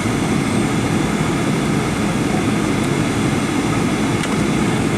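Steady jet engine and airflow noise heard inside the cabin of a Boeing 737-800.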